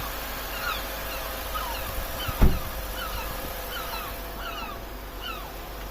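Birds chirping steadily, a run of short falling notes a few times a second, over a low steady rumble; one loud dull thump about two and a half seconds in.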